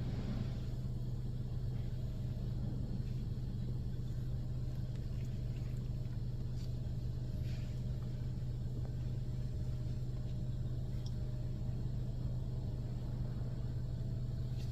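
Steady low hum and rumble heard from inside a car's cabin during a touchless automatic car wash, with a few faint ticks.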